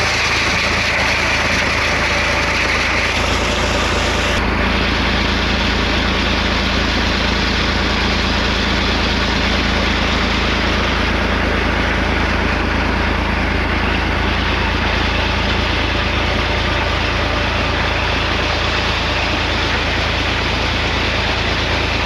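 Tractor engine running steadily under load, driving a tubewell pump.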